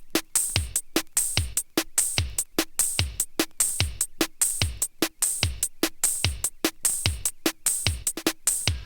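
Drums-only intro of a late-1990s trance track: a steady drum-machine beat, each kick a low thud falling in pitch, with open hi-hat hiss between the kicks and no melody yet.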